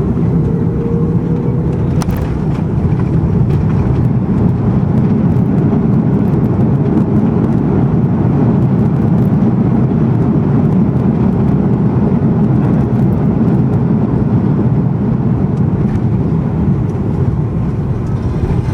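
Cabin noise of an Airbus A330-200 rolling out on the runway after touchdown: a steady, loud, low rumble of its engines and wheels, with a faint thin whine in the first couple of seconds.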